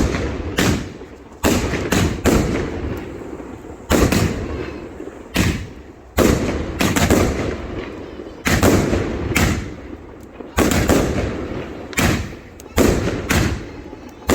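Aerial fireworks in a large display going off in quick succession: sharp bangs at uneven intervals, about one a second, each followed by a rumbling echo that dies away.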